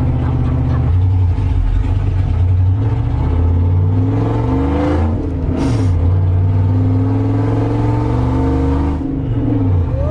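Straight-piped 5.2 L (318) V8 of a 2nd-gen Dodge Ram running loud with no muffler, its low exhaust drone steady, then rising and falling in pitch about halfway through and dipping again near the end.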